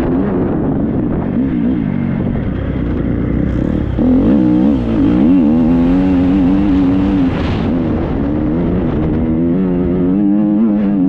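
Triumph 250 motocross bike's four-stroke single-cylinder engine revving up and down continually under throttle as it is ridden, getting a little louder about four seconds in.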